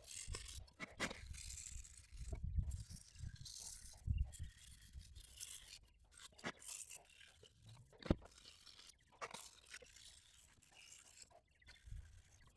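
Sandpaper rubbed by hand over dried body filler on an aluminum wheel, in irregular scraping strokes, with a few sharp knocks.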